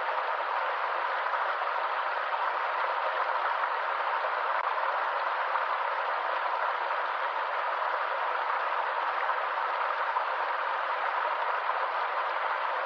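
A stream's water rushing and splashing in a steady, even wash of sound, with no deep rumble underneath.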